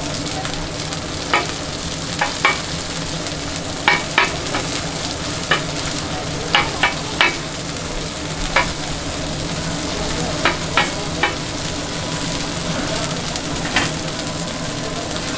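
Mung bean pancakes (bindaetteok) sizzling steadily in oil on a flat griddle. About a dozen sharp metal clinks and scrapes come at irregular moments as a metal scraper and spatula press the pancakes against the griddle.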